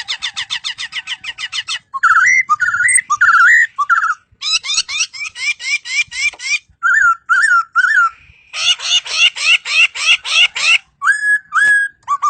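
Laughingthrush (poksay) singing a loud, varied song: fast runs of repeated notes alternating with slurred up-and-down whistles, ending with two flatter whistles.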